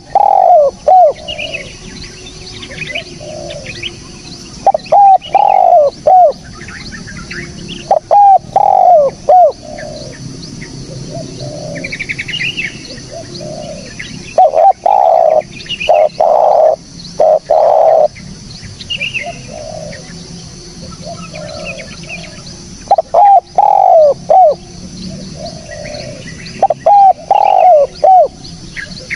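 Spotted dove (tekukur) cooing: loud phrases of a few short coos, repeated every few seconds, with fainter, higher chirps from other small birds and a steady high hiss behind.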